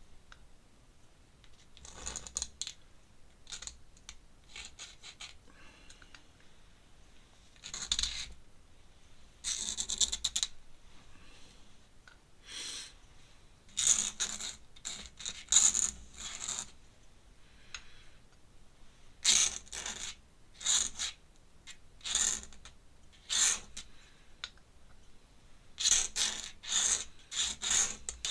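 Pen scratching across paper in many short strokes, in clusters with quieter pauses between, as feathers are drawn in ink.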